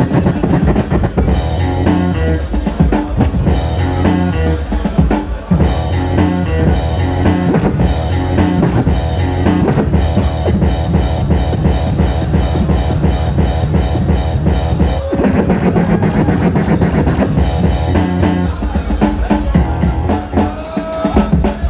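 Turntablist scratching and cutting over a funk breakbeat, with drums and guitar. Short pitch glides come in about two-thirds of the way through and again near the end.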